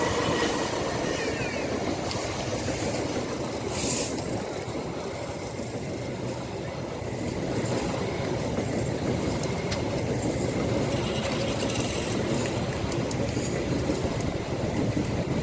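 Train passing over a railway level crossing: a steady rumble of its wagons on the rails, with a sharp knock about four and a half seconds in.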